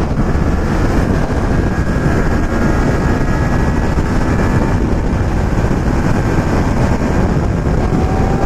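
Motorcycle running at road speed, its engine note buried in heavy, steady wind rush on the microphone, with a faint rising whine near the end.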